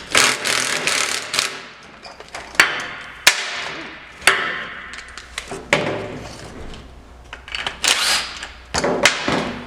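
Workshop clatter: a series of sharp metal knocks and short rattling, scraping noises as tools and bike parts are handled.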